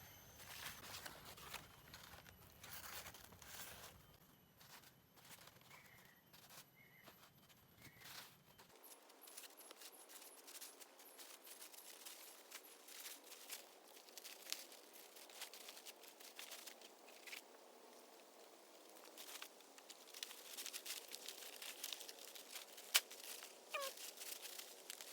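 Faint rustling and crackling of dry teak leaves being handled, with scattered light clicks and taps.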